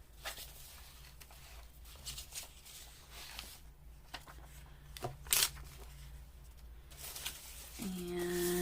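Sheets of paper being handled and shuffled: soft rustling with scattered sharp crinkles, one crisper snap about five seconds in.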